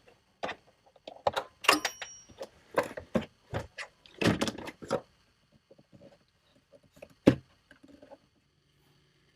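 Factory plastic under-seat storage tray of a Toyota Tacoma being pulled loose and lifted out: a run of irregular knocks, clacks and scrapes, busiest in the first half, with fainter ticks after and one sharp click late on that is the loudest.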